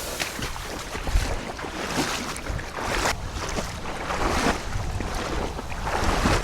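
Footsteps of someone walking out to retrieve a shot duck, irregular crunching or swishing strides, with wind buffeting the microphone.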